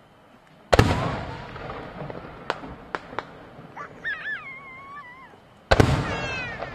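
Aerial firework shells bursting: two deep booms, about a second in and near the end, each followed by a long rolling echo, with a few sharp cracks between. Midway a wavering whistle sounds as another shell climbs.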